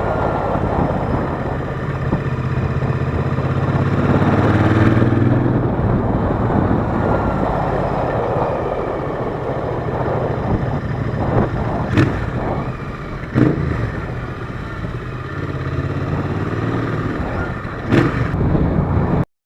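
Royal Enfield Interceptor 650's parallel-twin engine running, its revs rising a few seconds in and then easing off. There are a few sharp knocks, two close together in the second half and one near the end, before the sound cuts off suddenly.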